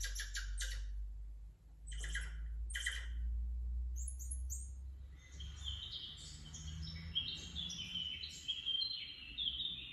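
Birds chirping: a few separate short chirps in the first few seconds, then a quick, continuous twittering run of high notes from about five seconds in.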